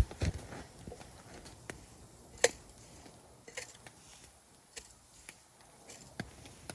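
Wood campfire crackling: scattered sharp pops and snaps at irregular intervals, the loudest about two and a half seconds in.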